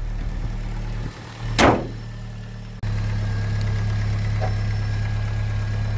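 MG ZR's Rover K-series four-cylinder engine idling steadily after being revived from ten years' standing. A brief loud noise comes about a second and a half in, and the sound breaks off abruptly near the middle before the steady idle resumes.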